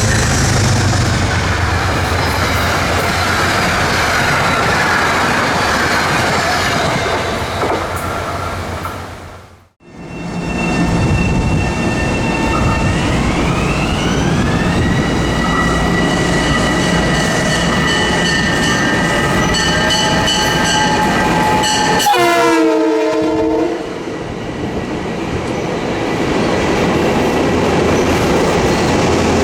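Train running past on the rails, loud and steady with a rushing, clattering sound. After a break, the train's electric motors whine in several tones that rise in pitch and then hold, as a train gets under way.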